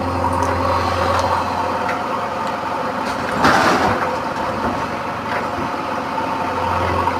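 JCB backhoe loader's diesel engine running steadily, with a brief hiss-like burst about three and a half seconds in.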